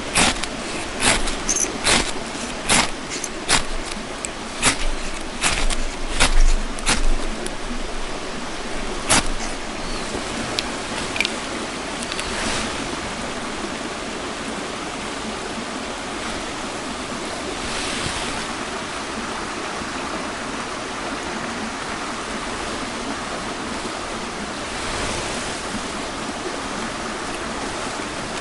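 A run of sharp snaps or clicks, one to two a second, over the first nine seconds, over a steady rushing noise that then carries on alone.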